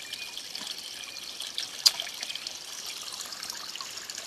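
Spring water trickling steadily, with one sharp click a little under two seconds in.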